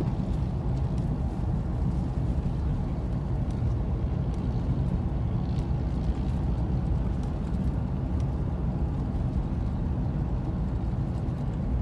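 Steady low rumble of a vehicle on the move, with no change in pitch or level.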